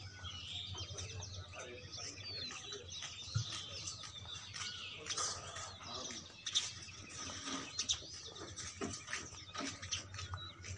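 Small birds chirping, with many short high calls overlapping and scattered throughout, and a few brief sharp clicks among them.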